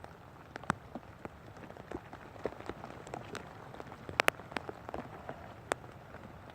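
Rain falling, a steady patter with irregular raindrops tapping close by; a pair of sharper taps about four seconds in.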